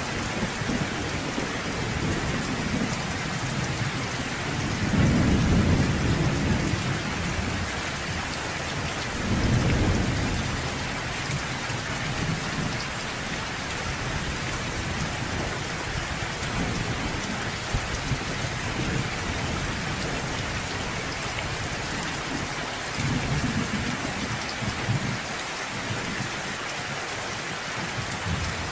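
Steady rain falling, with low rumbles of distant thunder swelling up about five seconds in, again around ten seconds, and once more near the end.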